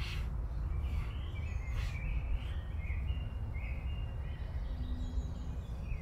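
Small birds chirping and singing, a series of short high calls, over a steady low rumble.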